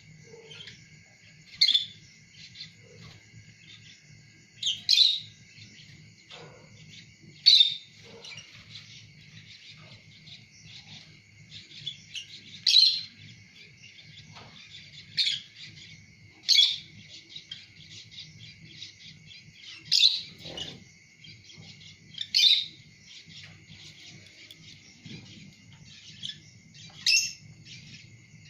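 Lovebirds chirping: about nine loud, sharp, high calls a few seconds apart over a constant high chatter of many birds, with a faint low hum underneath.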